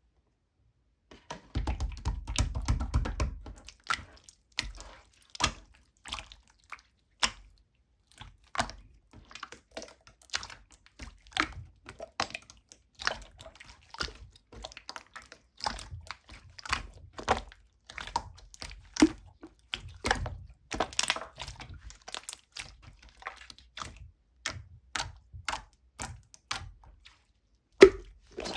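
Irregular light taps and clicks, about one or two a second, with a longer stretch of low rustling and knocking about two seconds in.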